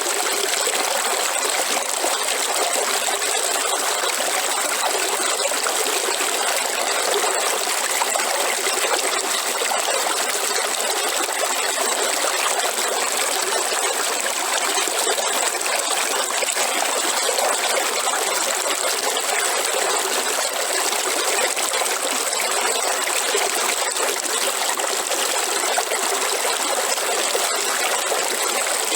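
River water flowing and trickling over stones, a steady even rush. A faint high steady hiss sits above it, which may be night insects.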